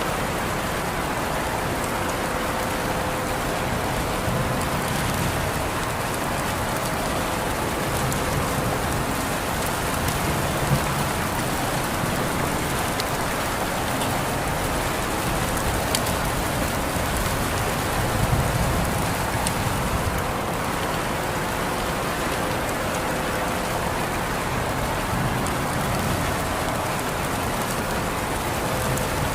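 Steady rain falling on a surface, with scattered sharp drip ticks standing out from the even hiss and a brief low rumble swelling about two-thirds of the way through.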